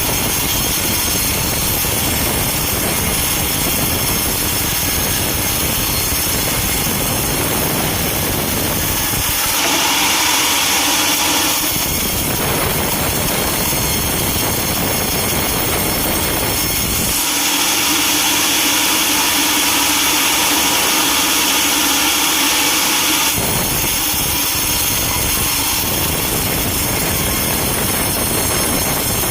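Sawmill machinery running steadily and loudly, the sawing noise changing abruptly every few seconds.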